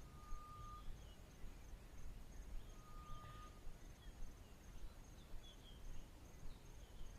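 Faint bush ambience: an insect calling in a steady run of short, high pulses, a bird giving two long, level whistled notes (one near the start, one about three seconds in), and a low background rumble.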